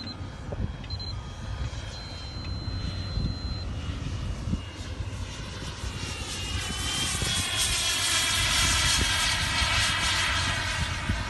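Electric ducted fans of a Freewing F-22 RC jet whining as it makes a pass, growing loud from about halfway and peaking near the end. Wind rumbles on the microphone throughout.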